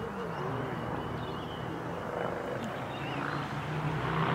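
Outdoor ambience: small birds chirping repeatedly over a low, steady, wavering hum.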